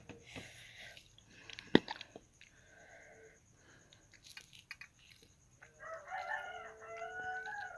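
Soft eating noises with one sharp click about two seconds in, then a rooster crowing for about two seconds near the end.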